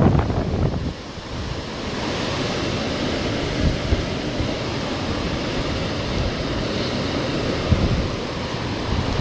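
Hurricane wind blowing in a steady rush, with heavy wind buffeting the microphone in the first second and again near the end.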